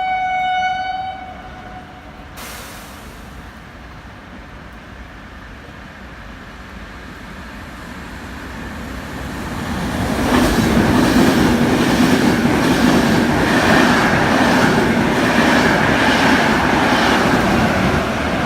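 A train horn sounds once, a single steady note lasting about a second. Then a train comes through the station, swelling until it is loud from about ten seconds in, with rhythmic wheel clatter over the rail joints.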